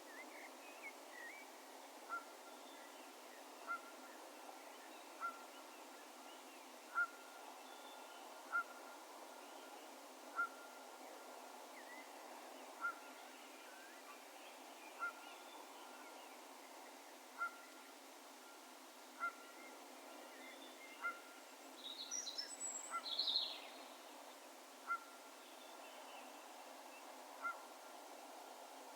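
A distant bird repeating a single short note about every one and a half to two seconds, carrying across an open field, over a faint steady background hush. About two-thirds of the way through, a brief flurry of higher, thinner chirps comes from another bird.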